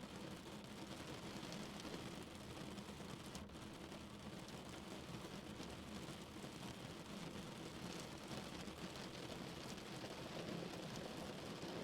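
Steady rain falling on a car's roof and windows, heard from inside the cabin, with a low rumble underneath.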